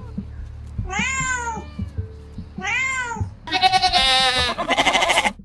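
A kitten meowing twice, each call rising and then falling in pitch. A little past halfway a herd of goats starts bleating, with several wavering bleats overlapping.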